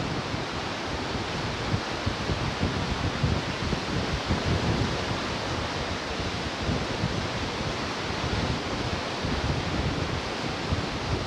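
Ocean surf washing steadily on the shore, a continuous rushing with no single break standing out, and wind gusting on the microphone underneath.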